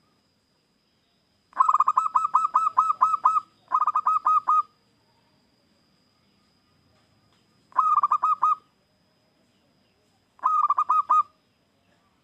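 Zebra dove (local perkutut) cooing in four phrases of rapid staccato notes: a long run, a short one straight after, then two more after pauses.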